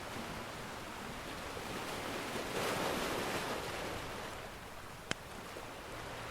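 Ocean surf: a steady hiss of waves, with one wave swelling and washing in about halfway through. A single sharp crackle from the wood fire comes near the end.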